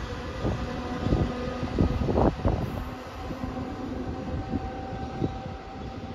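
A train passing along the tracks, its wheels knocking irregularly over the rails, with a steady hum under it. The sound fades as the train moves away.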